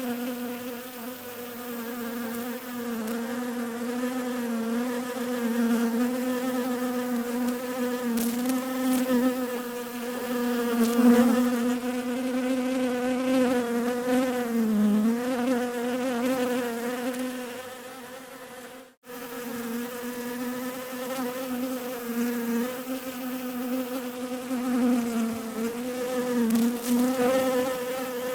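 Bees buzzing in a steady, droning hum whose pitch wavers slightly as it swells and fades. The sound cuts out for a moment about two-thirds of the way through, then resumes.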